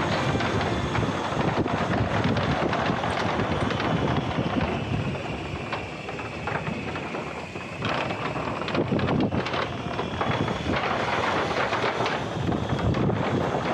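Wind buffeting the microphone: a loud, uneven rushing noise that swells and drops in gusts, dipping a little in the middle.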